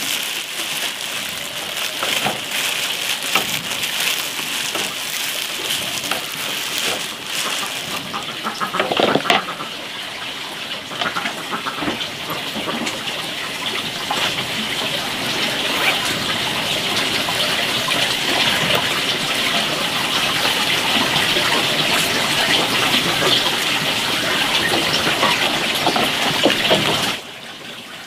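Steady hiss of rain, with plastic bag rustling and small handling knocks over it, a short cluster of them about nine seconds in; the rain sound cuts off abruptly near the end.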